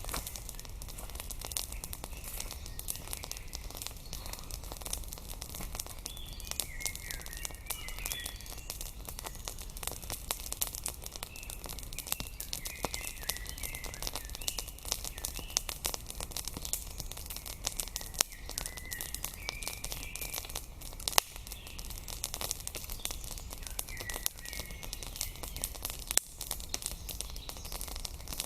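Wood campfire crackling with frequent sharp snaps, one louder pop about two-thirds of the way through, while small birds chirp and sing in the forest around it.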